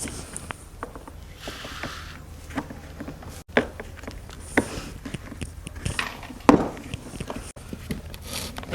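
Workshop handling noises: scattered knocks and clicks of parts being handled and fitted, with a short hiss about a second and a half in, over a low steady hum.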